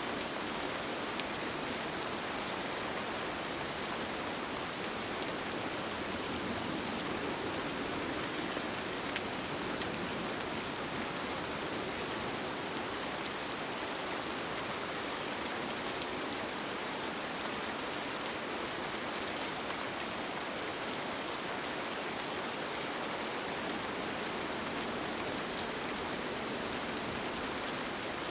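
Steady rain falling on a tent, heard from inside, as an even, unbroken hiss.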